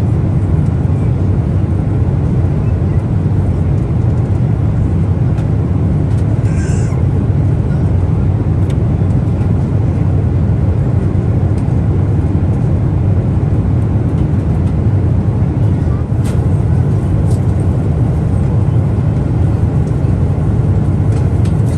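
Steady low drone inside the cabin of a Boeing 777-300ER, the noise of its GE90 engines and of air rushing past, heard from a seat. A few faint ticks and one brief higher sound about seven seconds in.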